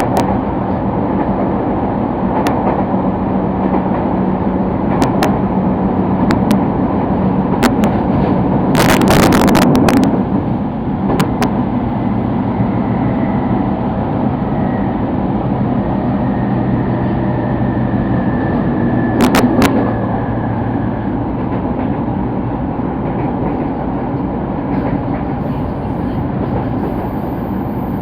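Sotetsu Line commuter train running on the rails: continuous rumble with a low hum and scattered clicks of the wheels over rail joints. About nine seconds in there is a brief louder rush, and a faint high whine sounds for several seconds in the middle.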